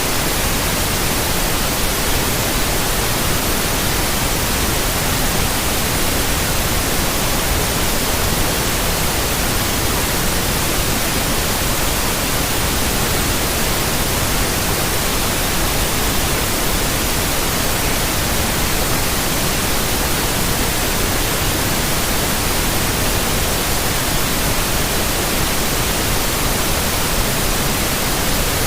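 Steady white noise: an even hiss spread across all pitches, unchanging in level.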